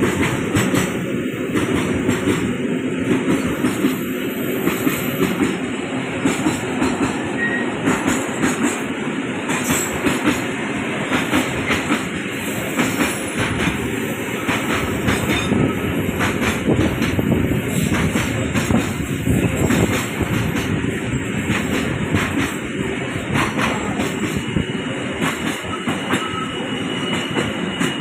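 A train passing close by on curved track, its wheels clacking steadily over the rail joints.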